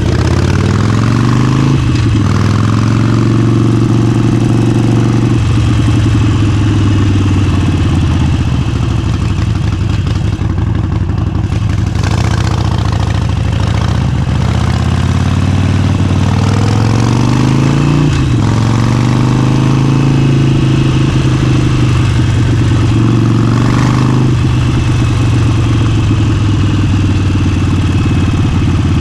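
Harley-Davidson Forty-Eight's V-twin engine through an aftermarket exhaust, ridden on the road: the pitch climbs under throttle, holds while cruising and drops off several times as the rider shifts gears and rolls off.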